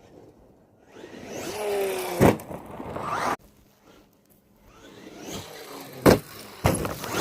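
RC car driving in two runs, its motor and tyre noise rising and falling. The runs are broken by sharp knocks.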